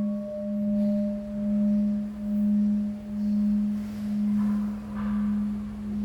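Large temple bell ringing out after a strike: one low hum that swells and fades a little more than once a second, while a higher overtone dies away.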